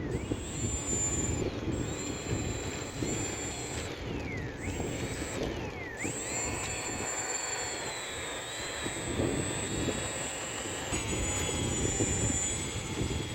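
Small electric RC model airplane's motor and propeller whining in flight, its pitch rising and falling with throttle and passes, and twice dipping sharply and climbing back about midway. Underneath is a low rushing noise.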